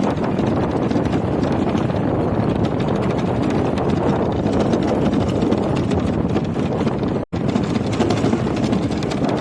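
Motorcycle engine running at steady road speed with wind rushing over the microphone while riding; the sound cuts out for an instant about seven seconds in.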